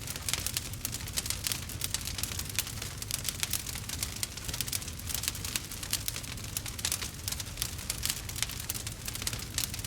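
Wood fire burning, with dense, irregular crackles and small pops over a low steady rumble.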